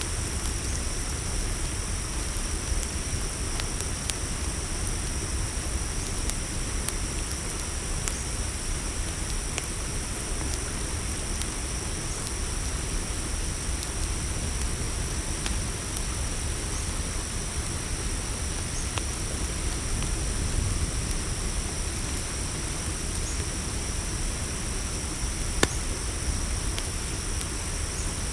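Steady chorus of crickets chirring over a low, even rumble, with a campfire crackling in scattered small pops and one sharper pop near the end.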